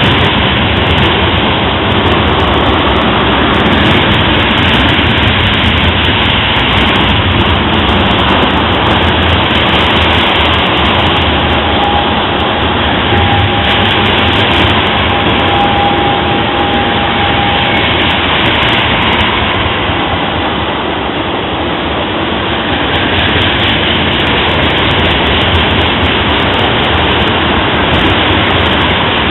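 A freight train passing close by, its cars rolling steadily over the rails. A faint thin squeal is heard for several seconds in the middle.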